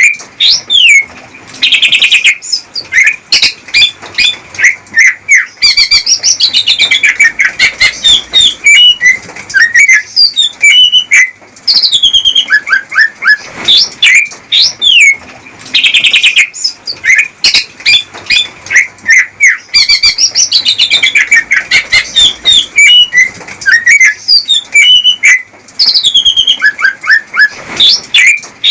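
Male greater green leafbird (cucak ijo) singing loud, fast courtship song to a female: rapid whistled notes, chirps and quick rising and falling glides, with the same run of phrases coming round again about every 14 seconds.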